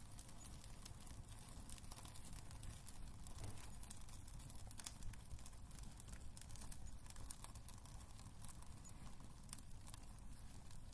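Wood fire crackling in a fireplace: a steady scatter of small pops and snaps over a low rumble, with a louder pop about five seconds in.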